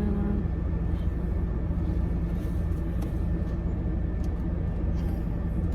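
Steady low rumble with a constant hum, and a few faint ticks.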